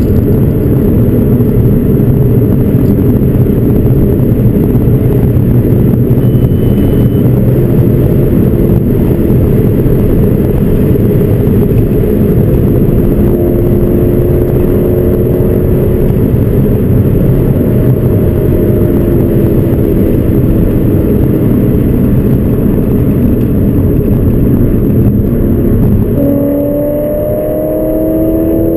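Audi S4's 4.2 V8 running through aftermarket headers and a freeflow exhaust under heavy wind and road noise while driving. Its pitch climbs gently in the middle and rises more clearly near the end as it accelerates.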